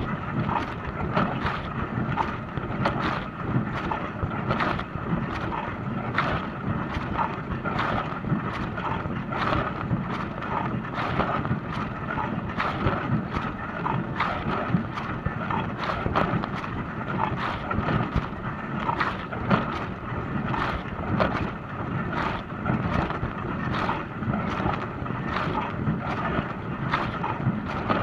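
Dishwasher running its wash cycle: a steady rush of spraying water with frequent irregular sharp splashes.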